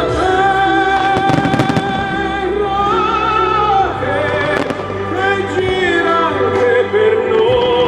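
Fireworks display: aerial shells and comets banging and crackling over loud music with a singing voice. A quick run of sharp cracks comes about a second or two in, and more near five seconds.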